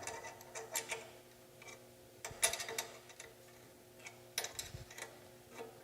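Wrench turning the steel tensioning screw that pulls the chop saw's motor back to tension its drive belts, clicking in a few short bursts of ticks.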